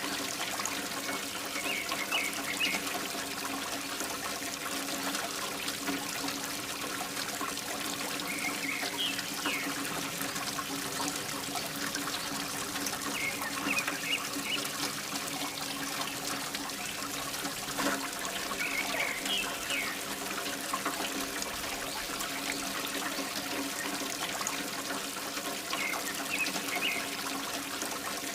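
Water pouring and trickling steadily from a mini water pump's outlet, over a steady motor hum. Short high chirps come back every five or six seconds.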